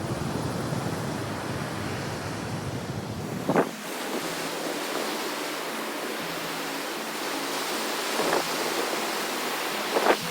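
Steady rush of ocean surf and wind on a GoPro's microphone, heavier and rumbling for the first few seconds, with a few short knocks, the loudest about three and a half seconds in and another near the end.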